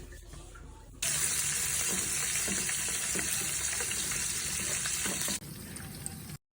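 Food frying in hot oil: a loud, crackling sizzle cuts in suddenly about a second in, holds steady for about four seconds, then drops away to a much quieter background.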